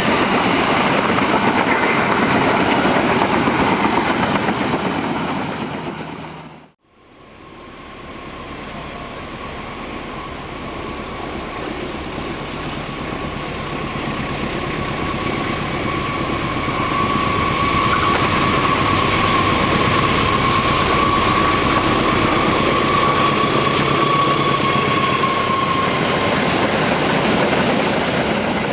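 Train passing with wheels rumbling on the rails; about seven seconds in it fades out and a second passing train fades in. The second train's wheels give a steady high squeal through the curve until shortly before the end.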